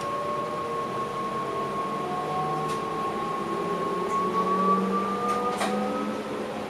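Electric train's traction motors whining in the driver's cab over the running noise of the train. The whine holds steady, then starts to rise slowly in pitch as the train picks up speed, with a few faint clicks.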